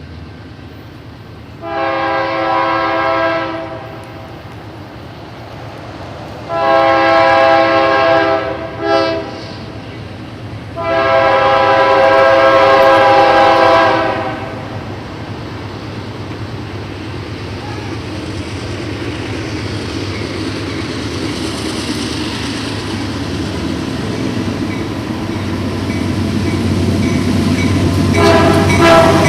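Approaching train's locomotive air horn sounding a chord in a long, long, short, long pattern, the standard grade-crossing signal. After the horn the train's rumble grows steadily louder as it nears.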